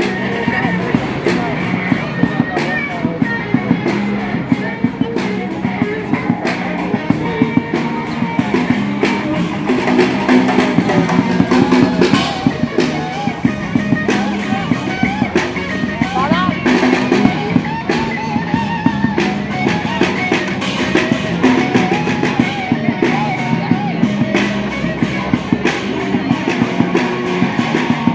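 Live rock band playing, with electric guitar over a drum kit's steady beat.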